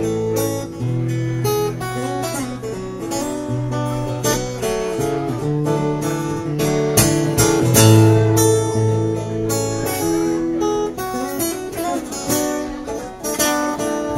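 Acoustic guitar strummed in a steady rhythm of chords: the instrumental intro of a song, before any singing.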